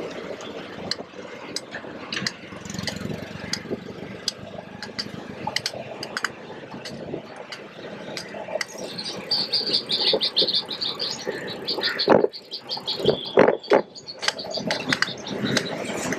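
Busy city street ambience: traffic running by, with scattered clicks and knocks. A rapid high-pitched chattering runs from about nine seconds in, and a few louder knocks come near the end.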